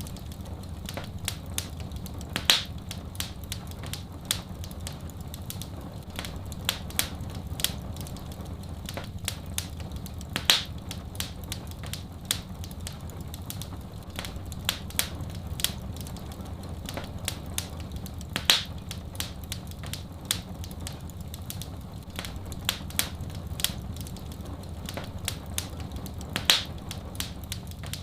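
Wood fire in a fireplace crackling: many small snaps and ticks, with a louder pop about every eight seconds, over a steady low rumble.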